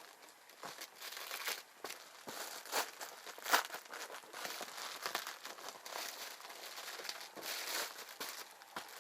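Dry crinkling and rustling as material is handled, a string of irregular crackles with one sharper crackle about three and a half seconds in.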